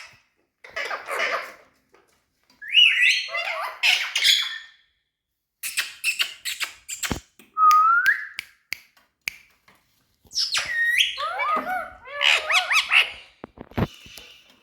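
Indian ringneck parakeet calling and chattering in short bursts of gliding, squawky notes, with one clear whistled note about eight seconds in.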